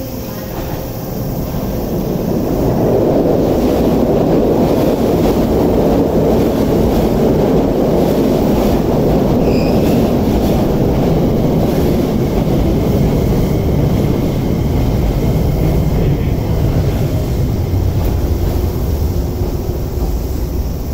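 Electric commuter train pulling into the station along the platform. Its running rumble swells over the first few seconds as it comes close, then eases a little as it slows toward a stop.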